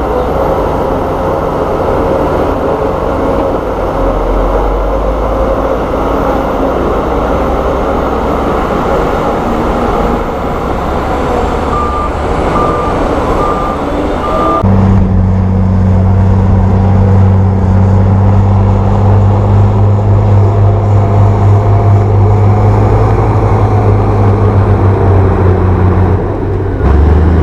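Heavy diesel earthmoving machinery running under load, with a few short backup-alarm beeps a little before halfway. About halfway the sound changes abruptly to a louder, steadier low engine drone.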